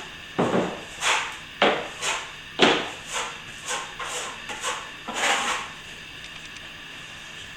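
Steel plastering trowel working fresh plaster: a series of about eight short scraping strokes, then the work stops about five and a half seconds in.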